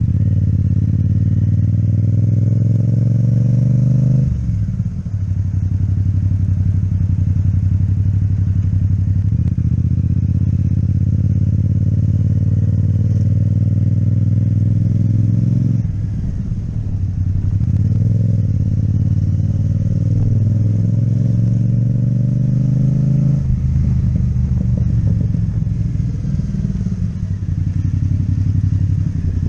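Yamaha MT-07's parallel-twin engine with an Akrapovic exhaust, running under way. The note climbs for about four seconds, then drops sharply and runs steady, with further dips in pitch past the middle and again near the end.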